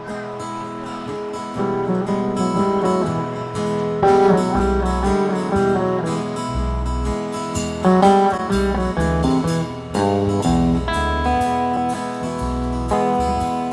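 Live band playing a song's guitar intro: strummed and picked guitar, with a bass coming in about four seconds in.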